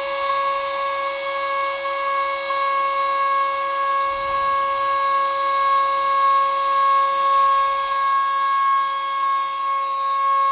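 Homemade Arduino CNC machine with A4988 stepper drivers running, its motors giving a steady high whine at one unchanging pitch.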